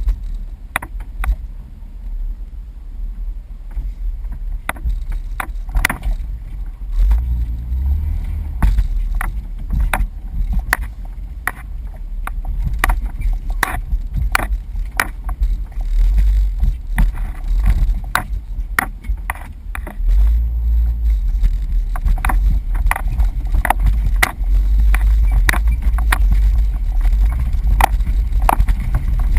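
Jeep driving over a rough off-road trail: a low engine rumble, louder about a third of the way in and again in the second half, with frequent sharp clunks and rattles.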